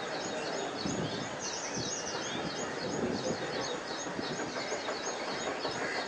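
Birds chirping: a fast run of short, high chirps, about three a second, over a steady outdoor background noise.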